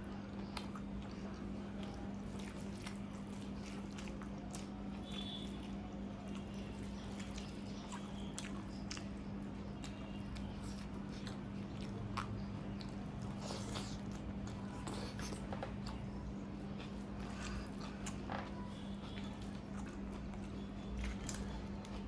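Close-up mouth sounds of a person eating: wet chewing, biting and lip smacking, with many small irregular clicks. A steady low hum runs underneath.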